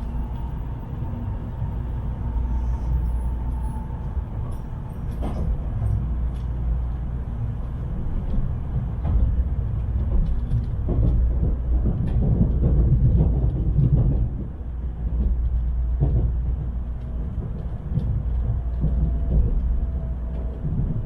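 Steady low rumble of a Tokaido Shinkansen running, heard inside the carriage, with scattered clicks from the track. A faint thin whine fades out in the first few seconds and comes back briefly near the end.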